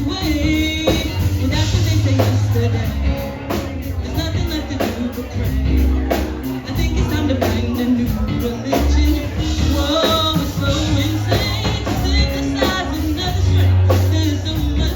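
Live band playing a song with a lead vocal: deep sustained bass notes under a steady drum beat, with a voice singing over the top.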